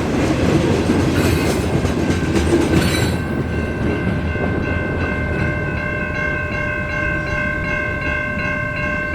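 Freight train rumbling with wheel clatter for the first three seconds. Then a locomotive horn sounds one long, steady chord of several tones to the end.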